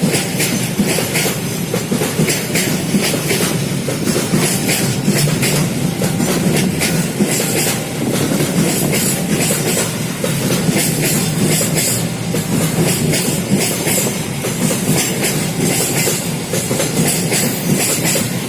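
Train cars rolling past, their wheels clattering steadily over the rail joints.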